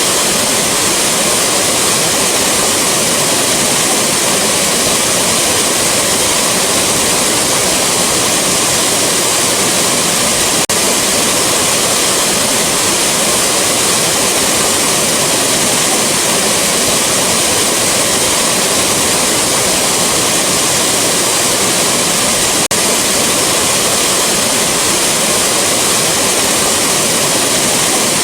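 Rushing waterfall: a steady, even rush of falling water, strongest in the upper range, with no breaks.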